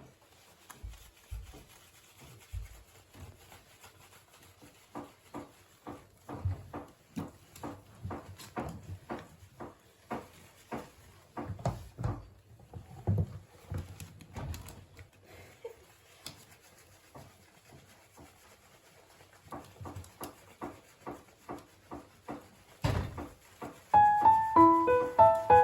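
Irregular soft knocks and taps, with a louder thump near the end, from handling during a small dog's bath. Piano music starts in the last couple of seconds.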